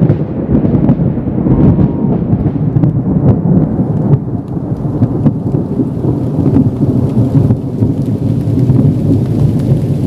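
Thunder rolling in a long, continuous low rumble, really loud.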